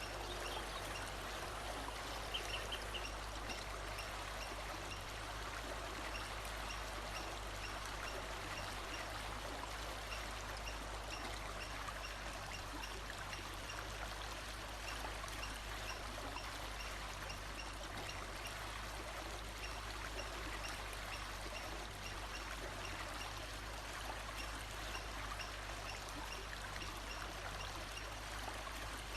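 A stream of running water, steady throughout, with faint short high chirps repeating about every half second and a brief call about two seconds in.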